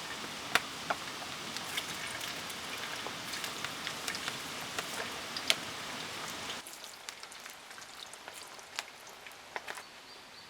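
Steady rain with many separate drops tapping sharply; about two-thirds of the way through it changes abruptly to a quieter, lighter rain with scattered drips.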